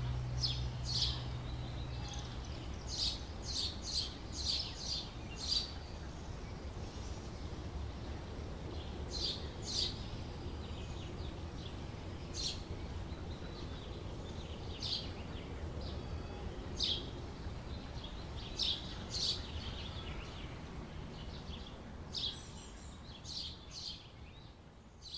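Small birds chirping in short, sharp calls, often in quick runs of two to five, scattered over a steady low outdoor rumble. The whole fades out near the end.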